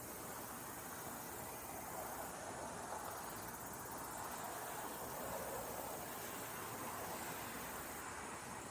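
Faint, steady outdoor ambience: an even hiss that swells a little around the middle, with no distinct calls or events.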